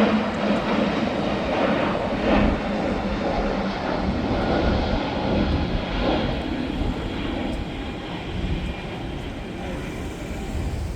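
Jet airliner passing, its engine noise a broad rumble and hiss that slowly fades over the last few seconds.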